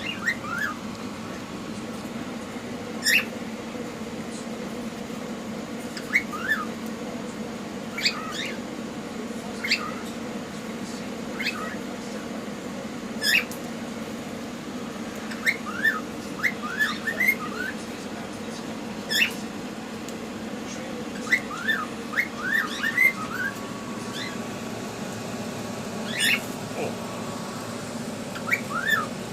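Cockatiels calling: many short rising chirps and whistles, some in quick runs, with a few sharp loud calls between them, over a steady low hum.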